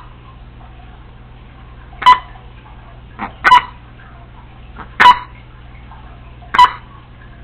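Congo African grey parrot giving short, sharp, pitched calls: four loud ones about one every one and a half seconds, with a fainter one just before the second.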